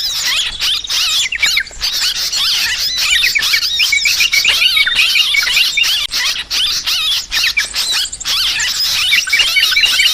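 Yellow-vented bulbuls chattering noisily: a dense, continuous jumble of quick, overlapping call notes in an agitated chorus.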